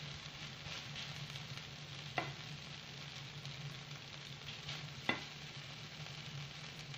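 Grated potatoes sizzling in a nonstick frying pan as they are stirred, with two sharp knocks of the stirring utensil against the pan, about two seconds in and again about five seconds in.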